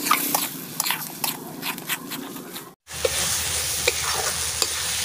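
Spiced onion-tomato masala with a little water added, bubbling and sizzling in a metal kadhai, with a ladle clicking and scraping against the pan as it is stirred. The sound breaks off for a moment a little before halfway, then the sizzle carries on.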